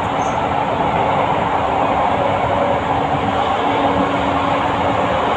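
A passenger train running at speed: a steady rolling rumble and rail noise, with a low steady hum that drops out briefly and returns a little past the middle.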